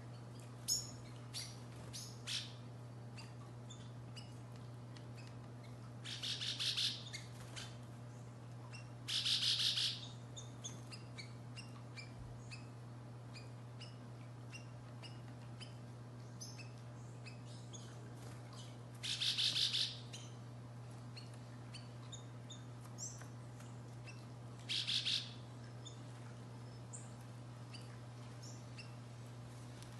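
Small songbirds calling: scattered short high chips, and four quick trills about a second long each, over a steady low hum.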